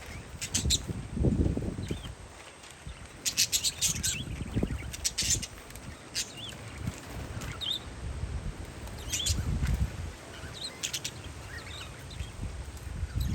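Parakeets chirping in short scattered bursts, with wind gusting on the microphone as a low rumble underneath.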